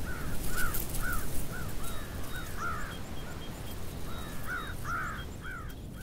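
A bird calling over and over, a steady series of short rising-and-falling notes, about two a second.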